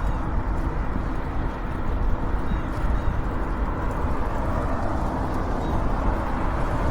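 Steady wind rush on a bike-mounted camera microphone, mixed with the e-bike's tyre and road noise while riding along.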